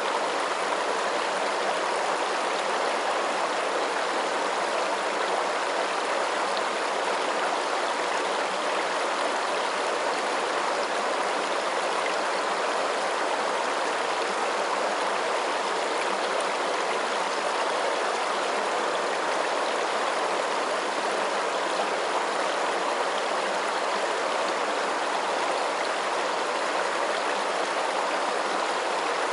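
Steady rushing of flowing water, like a stream, in an even, unchanging wash of sound.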